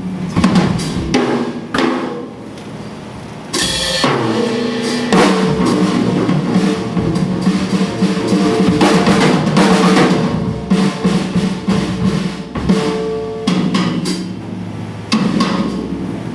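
Live band music with a drum kit to the fore, kick and snare hits over sustained pitched notes. The playing eases briefly about two seconds in, then comes back in full about three and a half seconds in.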